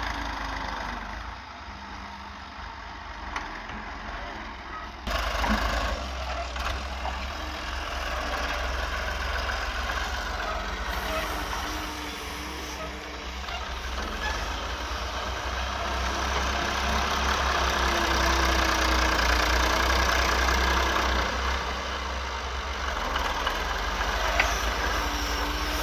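Fiat 480 tractor's diesel engine running under load while levelling ground, with an abrupt change in the sound about five seconds in and louder running for a few seconds past the middle.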